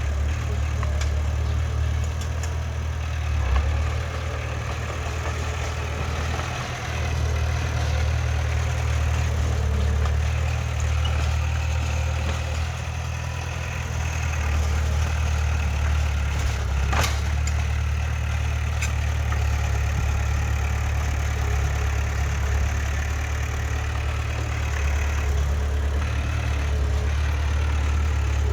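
Heavy diesel engine of earthmoving machinery running steadily with a deep hum that rises and dips slightly, and one sharp click a little past the middle.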